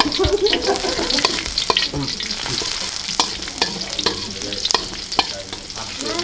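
Sliced shallots, garlic and ginger sizzling in hot oil in a wok, frying toward golden, while a metal spatula stirs them. Sharp clinks and scrapes of the spatula against the wok come every second or so over the steady sizzle.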